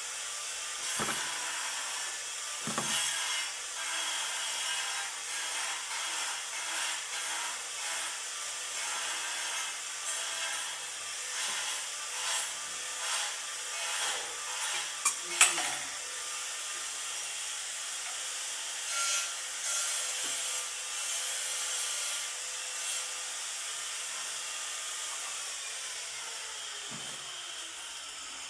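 Hand-tool work on board: repeated scraping or rubbing strokes, with a sharp click about halfway through.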